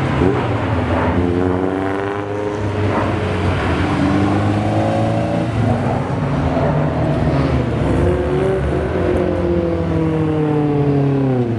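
Several Honda S2000s driving slowly past one after another, their four-cylinder engines running with pitch that rises and falls gently; near the end one engine's pitch drops as it goes by.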